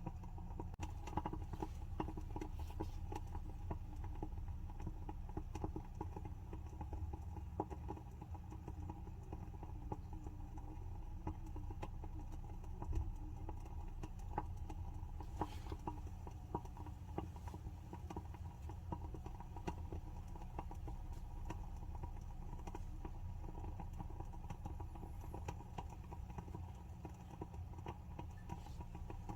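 WoodWick candle's wooden wick burning, crackling with rapid, irregular small pops over a steady low hum.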